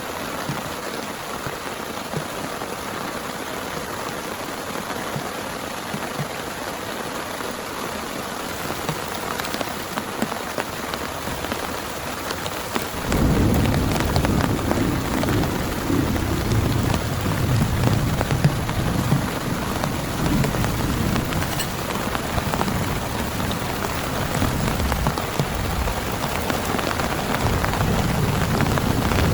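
Heavy rain falling steadily. About thirteen seconds in, thunder breaks in suddenly as a deep rumble that keeps rolling under the rain.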